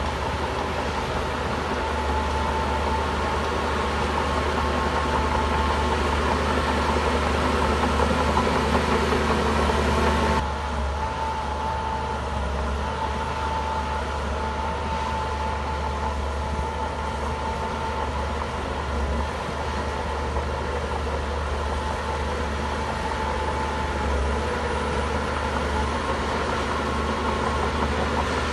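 Heavy diesel engine of a Shantui bulldozer running steadily, with a high whine that comes and goes. The sound changes abruptly about ten seconds in, dropping slightly in level.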